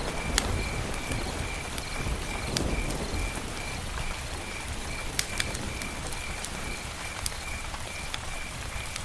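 Campfire burning, with a steady hiss and scattered sharp crackles and pops. Under it a faint high chirp repeats evenly throughout.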